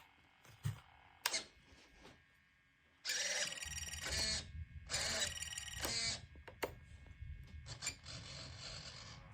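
Hobby servos in a nitro RC airplane whirring in short bursts as they are driven from the transmitter, with the throttle servo working the carburetor. Two strong bursts come about three and five seconds in and a weaker one near the end, after a few light clicks at the start.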